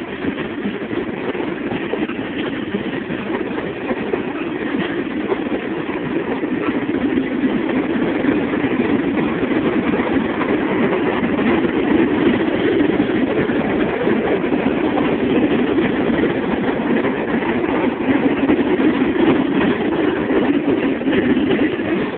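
Freight train rolling past, a steady rumble of its cars on the rails that grows a little louder toward the second half.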